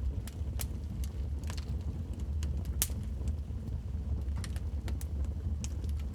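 Wood fire crackling in a fireplace: irregular sharp pops and snaps over a steady low rumble of the flames, with one loud crack a little under halfway through.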